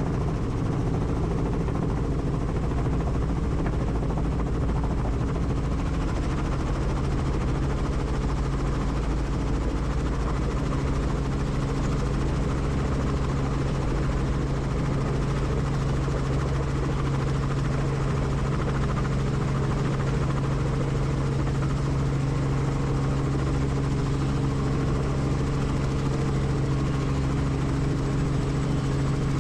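Helicopter in flight, its rotor and engine running as a steady low drone heard in the cabin.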